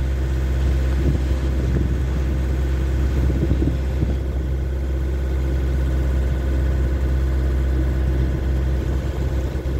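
Inboard engine of a Seadog 30 ketch running steadily under way, a constant low drone.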